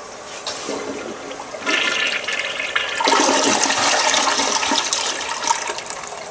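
Toilet flushing: a rush of water that builds in two steps, loudest from about three seconds in, then dies away near the end.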